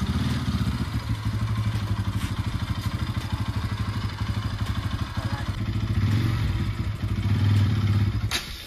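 Bajaj Pulsar NS200's single-cylinder engine running at idle with a fast, even exhaust pulse. It grows louder for a couple of seconds, then cuts off suddenly near the end.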